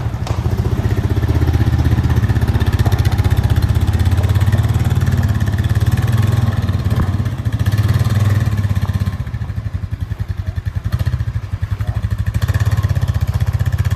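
Honda ATV engine running as the four-wheeler is ridden, a steady low drone that eases off about ten seconds in and builds again near the end.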